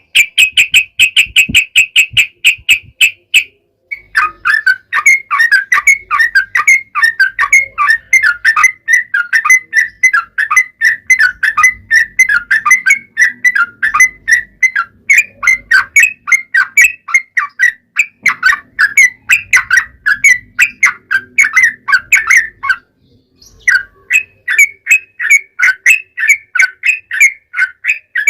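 Yellow-vented bulbul (trucukan) singing its long rolling song: a fast run of repeated chattering notes that goes on for many seconds. It breaks off briefly twice.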